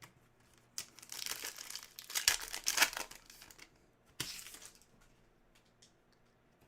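A trading-card pack's plastic wrapper being torn open and crinkled. There are rustling, crackling bursts for about two seconds, then one sharp crinkle about four seconds in.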